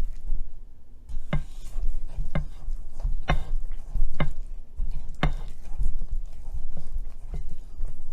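Spoon stirring brownie batter in a mixing bowl, knocking against the bowl's side roughly once a second.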